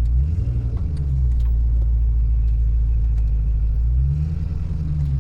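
2003 Land Rover Discovery 2's engine running at low speed with a heavy low rumble, revving up briefly twice, about a second in and again near the end.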